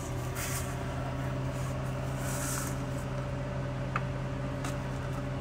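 A steady, even hum like an idling engine, with a faint click about four seconds in and another a little after.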